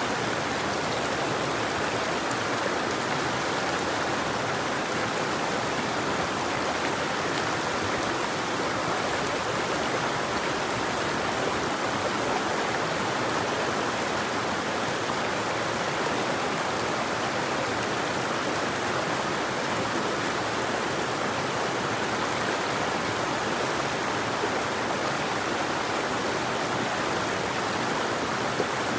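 River water flowing: a steady, even rush of moving water with no birdsong.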